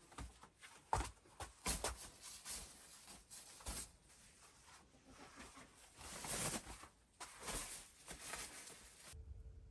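Irregular light knocks and clicks with two longer scraping or rustling sounds, about six and seven and a half seconds in; the sounds stop suddenly shortly before the end.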